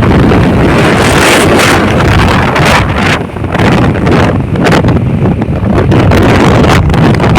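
Loud wind buffeting the microphone in gusts, with a heavy rumbling low end.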